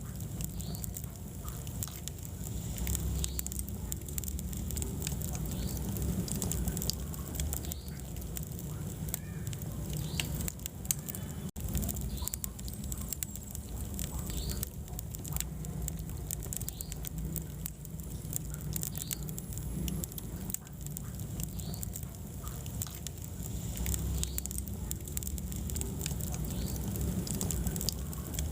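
Wood fire burning in a fireplace: a steady low rumble of flames with frequent sharp crackles and pops throughout. The sound drops out for an instant a little before the middle.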